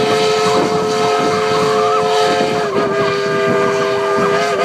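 Passenger locomotive's multi-note air horn sounding one long blast, a chord of several notes held steady, ending abruptly.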